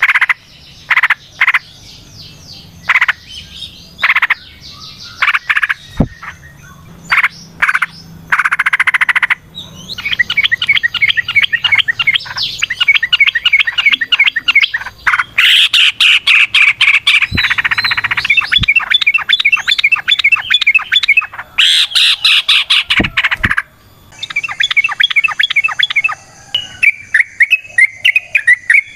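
Yellow-vented bulbul (trucukan) singing. It gives short, loud separate phrases for the first ten seconds or so, then long runs of rapid chattering notes, the long "ropel" song.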